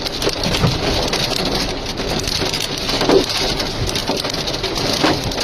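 Hailstorm: hailstones pelting down hard in a loud, dense, steady patter of many small impacts.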